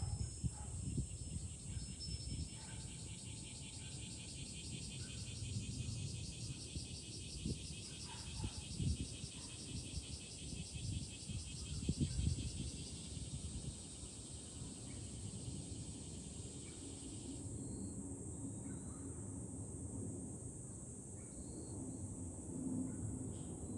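Summer cicada chorus: a steady high-pitched drone from many cicadas, with a louder, rapidly pulsing cicada buzz that starts about two seconds in and cuts off abruptly about three quarters of the way through. Wind buffets the microphone with a low, gusty rumble.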